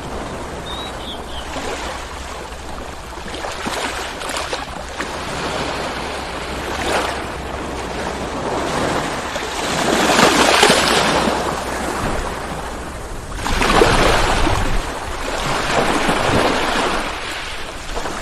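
Ocean waves rolling in and breaking, the wash rising and falling in surges, with the biggest breakers about ten and fourteen seconds in, over a steady low rumble.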